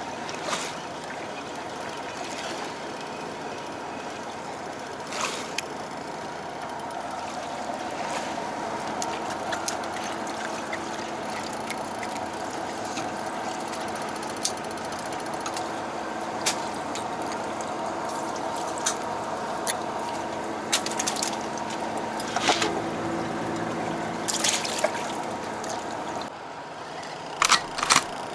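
Boat engine running with a steady hum, water splashing against the hull, and a few sharp knocks; the hum dips about two seconds before the end.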